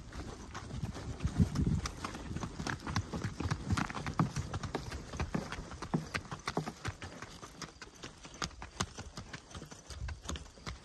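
Irregular footfalls on the ground: a run of sharp clicks and knocks, uneven in spacing, with low rumbling between them.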